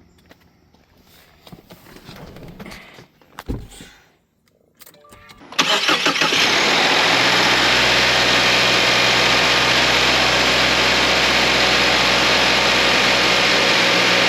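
A Subaru Ascent's FA24 2.4-litre turbocharged flat-four started up after a fresh oil change: a few faint knocks and rustles, then about five and a half seconds in the engine suddenly fires and runs on at a steady idle.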